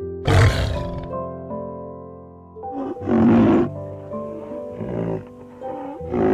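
An animal roaring three times, each roar short and rough and about three seconds apart, the first the loudest, over background music with long held notes.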